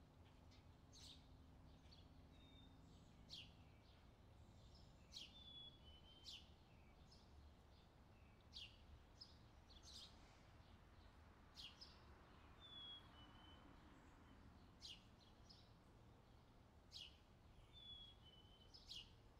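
Faint bird calling: short, high, downward-sweeping chirps about once a second, some followed by a brief whistled note, over a faint low background hush.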